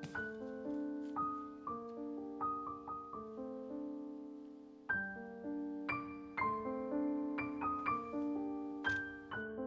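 Background music: solo piano playing slow, gentle notes. A chord is left to fade, and the playing picks up again about five seconds in.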